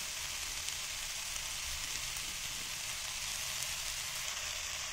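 Chopped vegetables (cabbage, carrot, baby corn, tomato and green capsicum) sizzling steadily in a hot pan on the stove.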